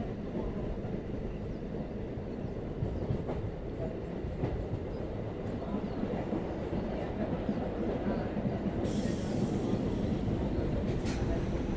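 Electric local train (EMU) running, heard from inside the coach: a steady rumble of wheels on the track. A rushing hiss comes in suddenly about nine seconds in, and there is a brief click near the end.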